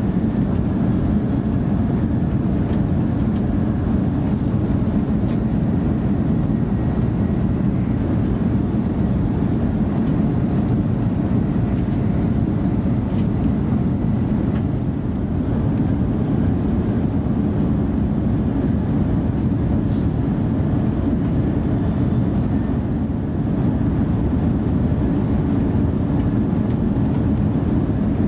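Steady low rumble of an ICE 3 high-speed electric multiple unit running along the track, heard from inside the passenger lounge behind the driver's cab.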